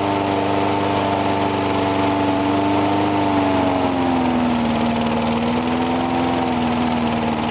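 A 4 hp Briggs & Stratton lawn mower engine running steadily just after a cold start on the first pull. Its speed drops a little about halfway through, then holds steady.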